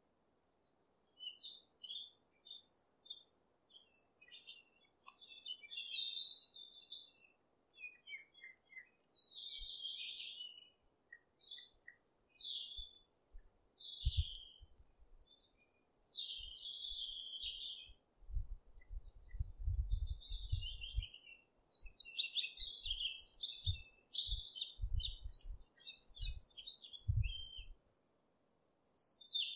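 Small birds chirping and twittering in quick, varied high phrases, almost without pause. Low soft thuds come now and then in the second half, loudest around the middle.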